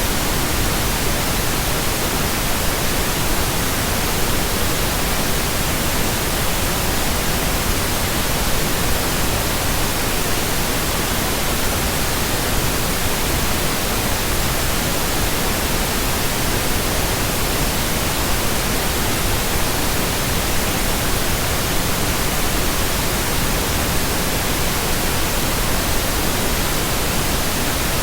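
Steady synthetic pink noise: an even, unbroken hiss across the whole range of pitch, with no changes.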